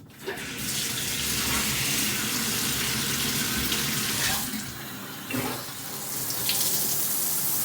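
Speakman Icon brass 8-jet fixed shower head turned on about a quarter second in, its spray running as a steady rush of water, briefly quieter for under a second about five seconds in.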